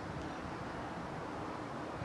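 Steady outdoor background noise with a faint, even hum and no distinct events.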